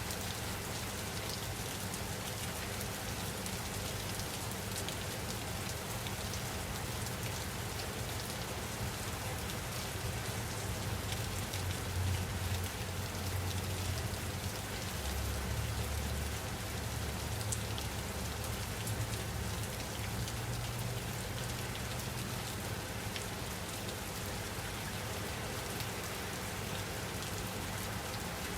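Steady rainfall with many fine drop patters on a surface. A low rumble swells under it for several seconds in the middle.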